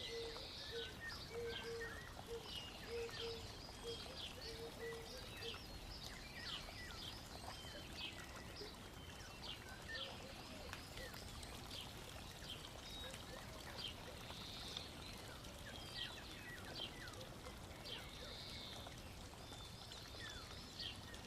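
Faint, irregular chirps of small birds over a steady soft hiss, a quiet nature ambience. A short pulsing tone repeats during the first few seconds.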